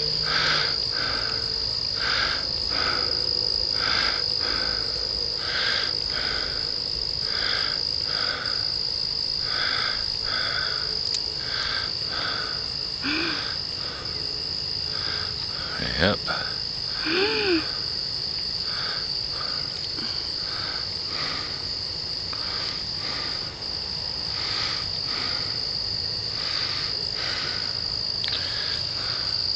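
Night insect chorus: a continuous high-pitched trill with a regular pulsing chirp repeating beneath it.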